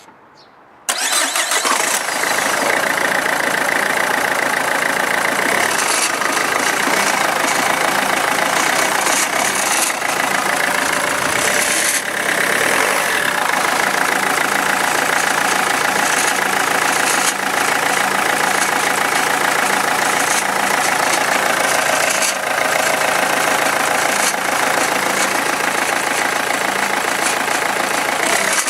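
Renault Megane II engine starting about a second in, then running steadily at idle with a knock whose cause is unknown.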